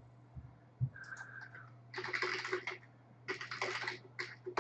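Typing on a computer keyboard in two quick bursts of keystrokes, as when entering a login, over a steady low electrical hum.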